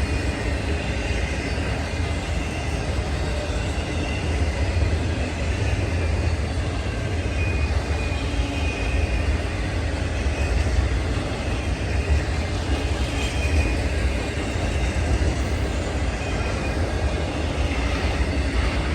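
Train rolling past: a steady low rumble of railcars on the rails, continuing evenly without a break.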